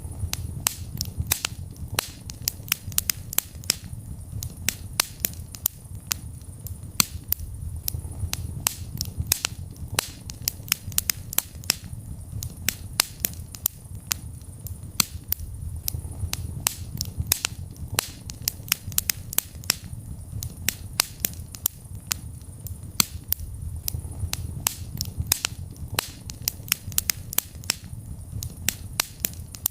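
Wood fire burning in a fireplace: irregular sharp crackles and pops, several a second, over a steady low rush of the flames.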